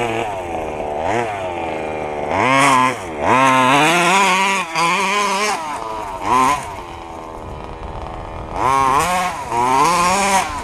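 Small two-stroke petrol engine of an FG 1:6-scale RC stadium truck revving in about five bursts, rising and falling in pitch between them. The driver is on part throttle, not yet flat out.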